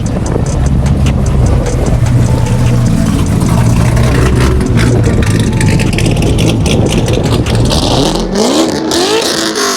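Performance car exhaust running with a loud, steady low rumble, then revving up with a rising pitch near the end.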